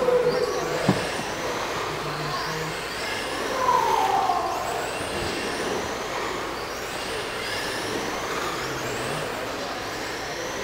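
A pack of 1/10 scale radio-controlled trucks racing on a dirt oval, their motors whining in repeated glides that rise and fall in pitch as they go around the track, one passing louder about four seconds in.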